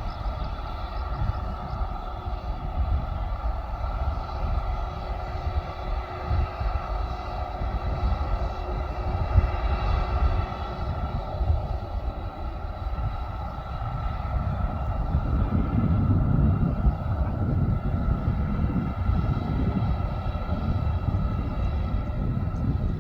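Airliner engines running steadily, a whine of several steady tones over a deep rumble, growing a little louder about two-thirds of the way through.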